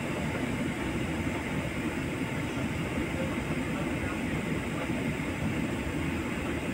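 Steady rushing cabin noise of an airliner in flight, engines and airflow running evenly.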